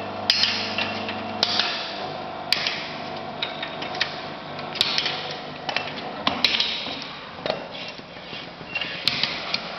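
Irregular metallic clanks and knocks from work on a hydraulic butt fusion welding machine, over a machine hum that stops about a second and a half in.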